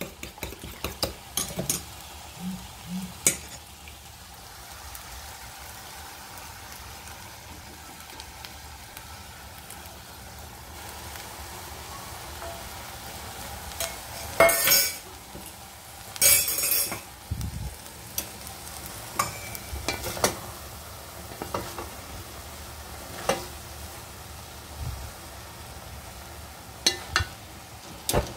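Beaten egg with bacon and string beans frying in a metal pan over raised heat: a steady sizzle, with a utensil clicking and scraping against the pan now and then, loudest in two scraping bursts about halfway through.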